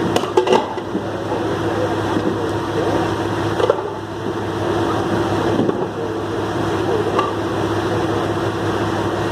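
A heavy truck's diesel engine runs steadily with an even hum, and a few short knocks come about half a second in and again a little before the midpoint.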